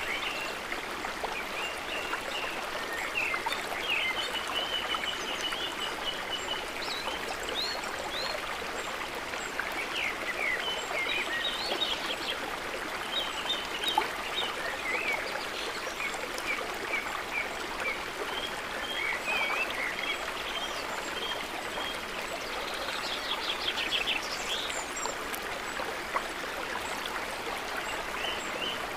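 Steady trickling, gurgling water, with many short bird chirps scattered over it and a quick trill near the end.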